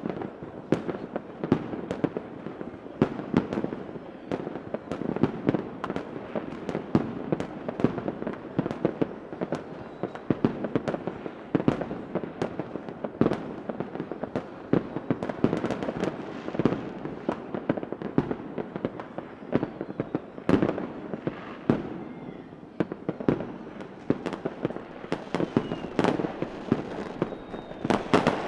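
Fireworks going off continuously: a dense run of irregular sharp bangs and pops, several a second, over a steady crackle.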